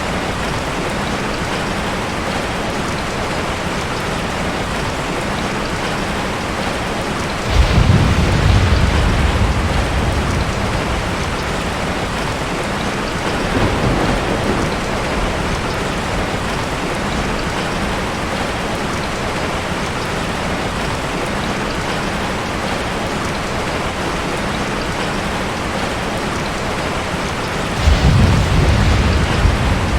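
Steady rain falling in an even hiss, with rolls of thunder: a sudden low rumble about a quarter of the way in lasting a few seconds, a fainter one near the middle and another near the end.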